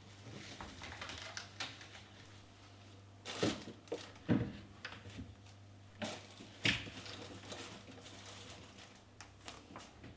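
Light clicks and taps of objects being handled, with three louder knocks about three and a half, four and a half and six and a half seconds in.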